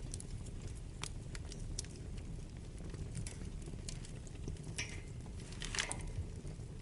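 Wood fire burning in a fireplace: a steady low rumble of the flames with irregular crackles and pops from the burning wood, a short flurry of louder crackles about five to six seconds in.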